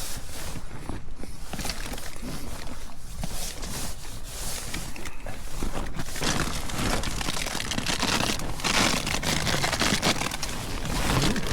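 Strong wind buffeting a bothy bag shelter: a steady rushing noise with the fabric rustling and crinkling, getting louder and hissier about halfway through.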